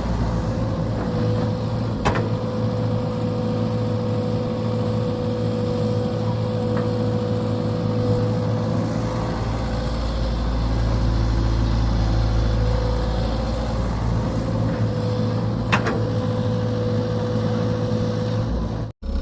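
Excavator's diesel engine running steadily under a constant high whine, with a low rumble that deepens from about nine seconds in. Two sharp metallic clanks sound, one about two seconds in and one near the end.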